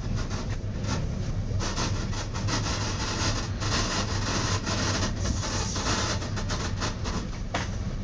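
Metra commuter train in motion, heard inside its leading cab car: a steady rumble of wheels on rail with a low hum and occasional clicks.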